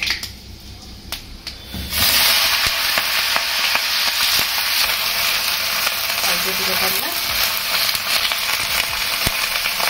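Cut onion stalks and potato strips tipped into hot oil in a wok. They hit the oil about two seconds in and sizzle, then keep frying steadily.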